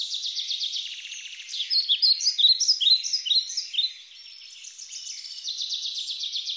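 Small songbirds singing: fast trills of rapidly repeated chirps, with a louder run of short sweeping whistled notes in the middle.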